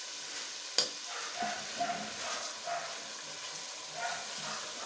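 Onion-and-spice curry masala sizzling as it fries in a pot, at the bhuna stage of browning the masala for kadhi gravy. A wooden spoon stirs it, scraping the pot in short strokes, with one sharp knock about a second in.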